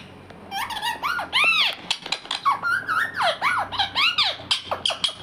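Indian ringneck parrot chattering: a fast, unbroken run of short squeaky calls that rise and fall in pitch, starting about half a second in.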